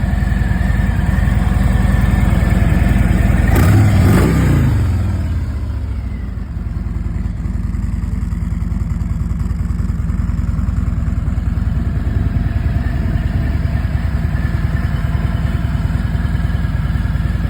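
Harley-Davidson Freewheeler trike's Milwaukee-Eight 114 V-twin idling with a steady pulsing beat. It is revved once about four seconds in, and the revs fall back to idle over the next two seconds.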